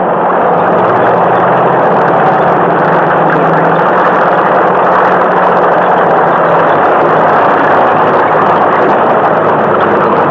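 Loud, steady rushing engine noise of a vehicle or aircraft, with a faint low hum underneath.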